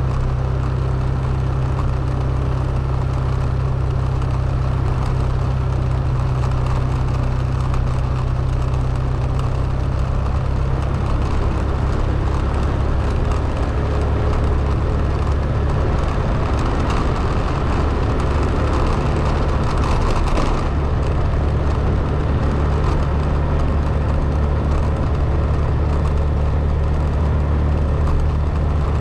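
Steady engine and road rumble of a car being driven, with the low hum shifting slightly in pitch a couple of times.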